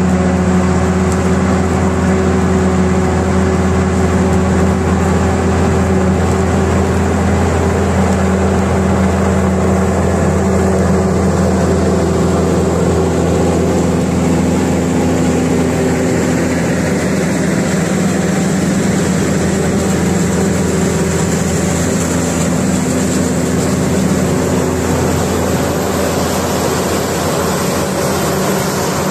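Heavy diesel farm machinery running steadily, a continuous engine drone that holds level throughout.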